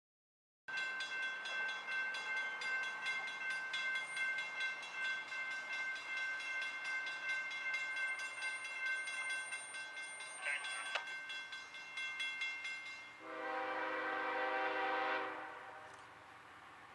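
CSX freight train passing with a steady high-pitched ringing over its rolling noise, then a horn blast of about two seconds starting about thirteen seconds in.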